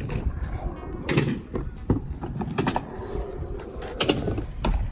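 Scooter wheels rolling over skate park concrete, with a rumble and scattered sharp clacks and knocks of the scooter hitting the ground.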